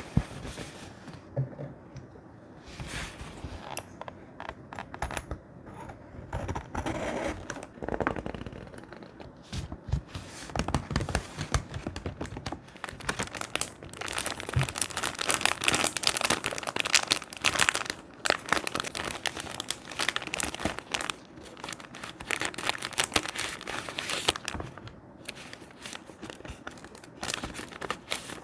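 Thick paper being handled for a scrapbook collage, crinkling and rustling in a dense run of small crackles that grows busier and louder about halfway through.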